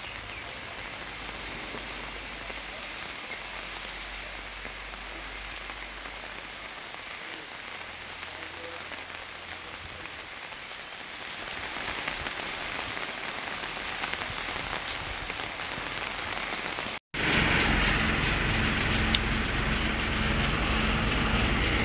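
Heavy rain falling steadily on wet pavement, growing louder partway through. About 17 seconds in the sound cuts out for a moment and comes back louder, with a low steady vehicle engine hum under the rain.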